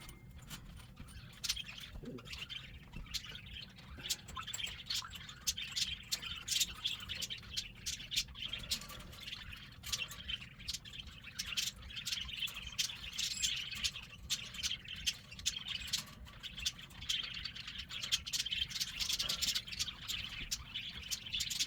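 Pet cockatiels chirping continually, with many scattered sharp clicks and knocks mixed in.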